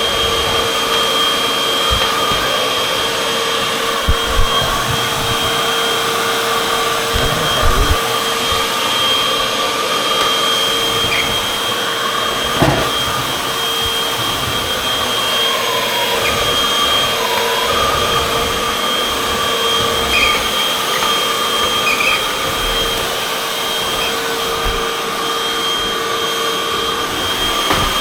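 Hoover UH70605 upright vacuum cleaner running steadily while vacuuming, a constant motor whine with a pitch that wavers slightly as the load changes. A few brief knocks come through as it is pushed along.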